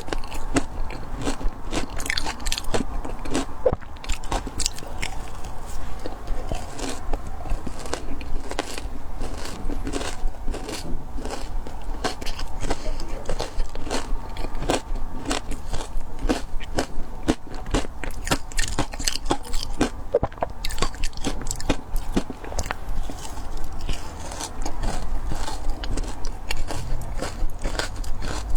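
Frozen matcha ice being bitten and chewed, a continuous run of irregular sharp crunches.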